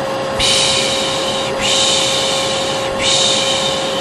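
Vacuum cleaner running steadily with a constant hum, while a person makes long repeated 'shhh' shushing sounds over it, three in a row with short breaks between, the 'piş piş' shushing used to soothe a baby.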